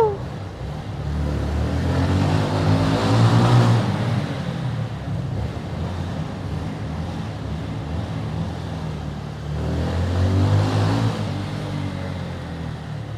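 Motorcycle engine pulling away and speeding up twice, about two seconds in and again about ten seconds in, its pitch rising each time, over a steady rush of wind and road noise.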